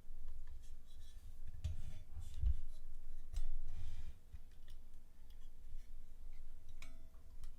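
Thin metal plates of a flat-pack mini fire pit being handled and hooked together: light scattered clicks and scrapes of metal on metal, with low rubbing from handling.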